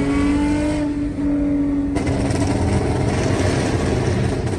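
Toyota Mark X's V6 engine accelerating under way, its pitch climbing slowly for about two seconds, then giving way to a rough, steady exhaust and road rumble.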